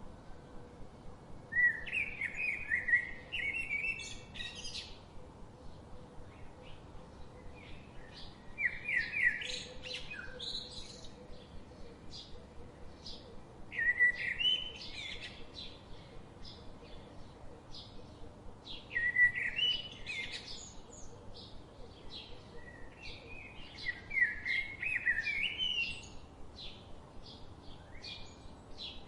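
Songbirds singing: one bird repeats a short phrase of rapid notes five times, every five to seven seconds, while other birds chirp faintly throughout.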